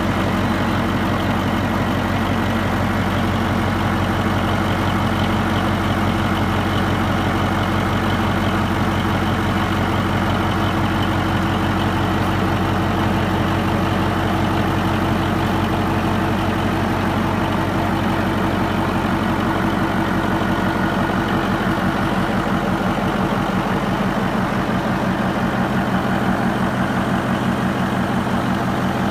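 Baudouin marine diesel engine with a Masson marine gearbox, running steadily at an even speed. Its low tone shifts slightly about three quarters of the way through.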